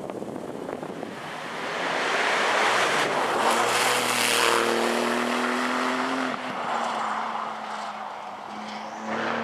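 Porsche rally car approaching at speed and passing close by. The engine is loudest about four seconds in, its pitch dropping as it goes past, then fades away, with the sound swelling briefly again near the end.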